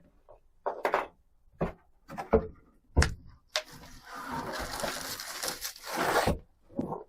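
Several short, separate knocks and taps, then about two and a half seconds of steady rustling or scraping noise, with one more tap near the end: things being handled.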